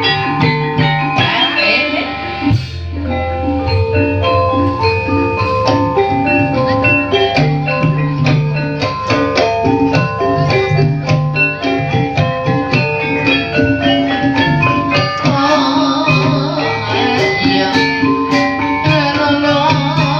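Javanese-style ensemble music for an ebeg dance: melodies of struck, tuned percussion keys over drum strokes. A wavering singing voice joins in about three-quarters of the way through.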